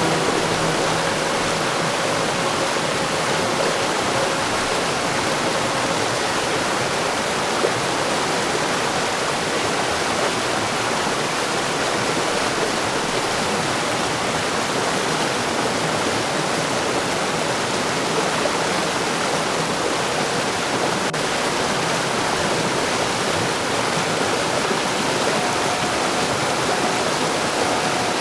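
Heavy rain pouring steadily, an even dense hiss with no thunder.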